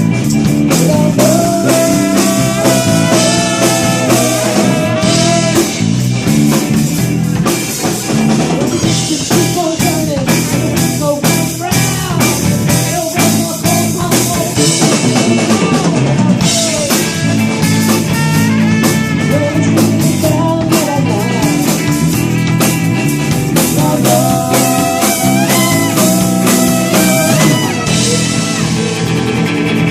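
Live blues-rock band playing an instrumental break: drum kit keeping a steady beat under guitar and a lead melody line of held, bending notes, with no singing.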